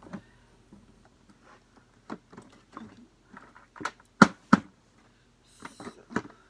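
Handling noises of fitting a Febreze disposable bag into the bag compartment of a Hoover WindTunnel Plus upright vacuum: scattered plastic clicks and knocks, the loudest two close together a little past the middle, and a brief rustle of the bag near the end.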